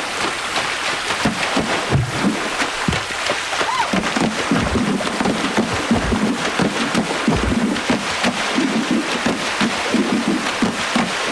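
Vanuatu women's water music: hands slapping, scooping and plunging into the water surface, giving a dense wash of splashing broken by deep hollow thuds.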